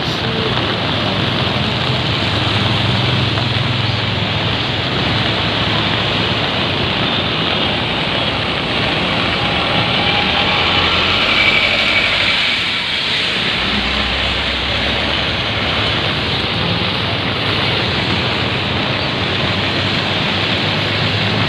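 Steady rushing roar of floodwater, with a low hum underneath.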